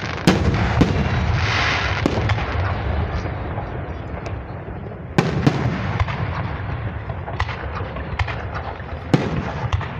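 Aerial fireworks shells bursting: a string of sharp booms, the loudest near the start, about five seconds in and about nine seconds in, over a continuous low rumble and crackle from the display.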